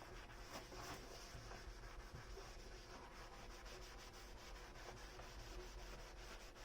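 Faint rubbing and scrubbing during dish washing, with many small light clicks scattered through it.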